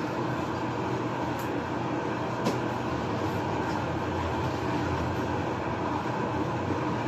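Steady rumbling noise of the kind heard riding in a moving vehicle, with one sharp click about two and a half seconds in.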